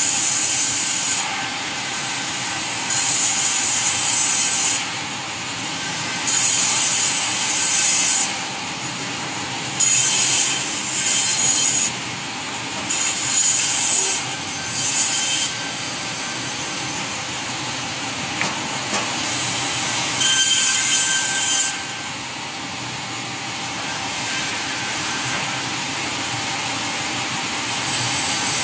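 Sawmill saw running steadily, with a series of louder, higher-pitched cuts through wood, each a second or two long and a few seconds apart; the cuts stop in the last third, leaving the saw running.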